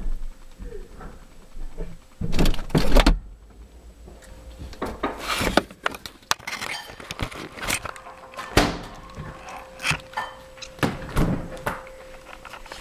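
Muffled thumps and knocks heard from inside a refrigerator as its door is shut and handled, the loudest cluster about two to three seconds in, over a faint steady hum.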